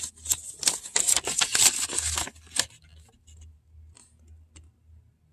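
Rapid clicking, rattling and rustling as the boxed parts and packaging of a tire pressure monitor kit are handled, for about two and a half seconds, then a few faint ticks.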